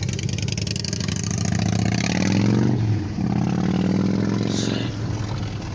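A passing road vehicle's engine accelerating: its pitch rises, drops once at a gear change about three seconds in, then rises again before fading.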